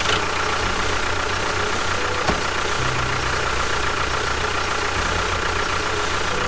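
A small motor running steadily, with a steady whine and a fast low throb.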